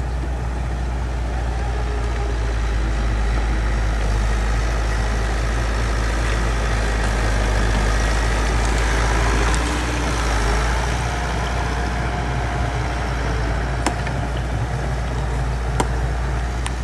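Bulldozer's diesel engine running steadily, swelling a little louder around the middle, with a couple of sharp metallic clanks near the end.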